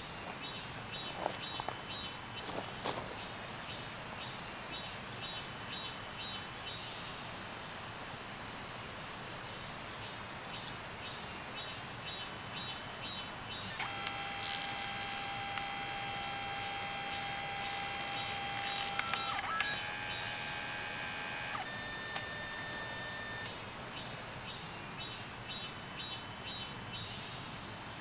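Steady rush of a creek with insects chirping in short, evenly repeated pulses. About halfway through, a sound of several held tones comes in for about ten seconds, changes pitch twice, then stops.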